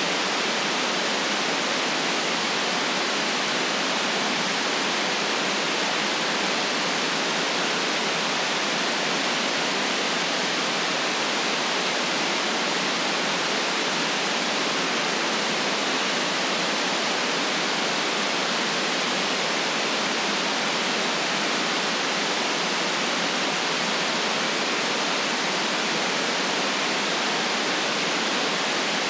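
Steady, unchanging white-noise hiss, even across the highs and mids with little bass.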